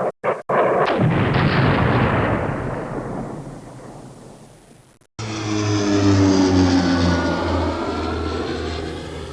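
Aircraft sound effects: a few sharp bangs, then an aircraft passing and dying away with a falling pitch. After an abrupt cut, a second aircraft flies over with a pulsing engine drone whose pitch bends up and then down as it passes, fading near the end.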